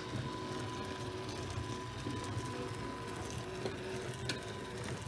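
O gauge model locomotive running over 3D-printed points, its motor giving a steady hum with a thin whine, and a few light clicks from the wheels on the track. The run through the turnout is smooth, with no derailment.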